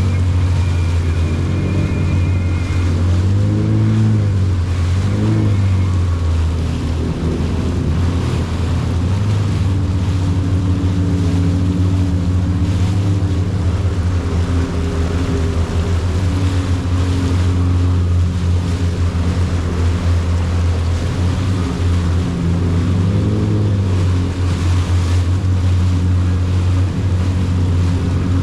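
Jet ski engine running steadily underway, with water rushing and wind buffeting the microphone; the engine pitch swells and falls back briefly a few times.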